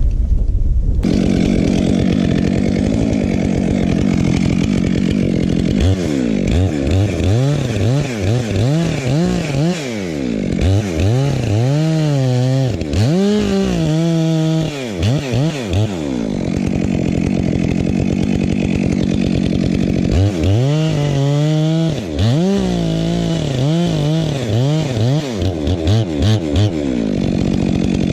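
Stihl chainsaw running and cutting oak wood, its engine pitch dipping and rising again and again as it bogs under load and recovers, with a steadier stretch in the middle.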